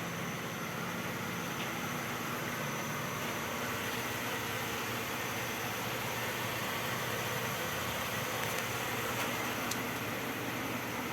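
A car idling steadily: a low, even hum under a constant hiss.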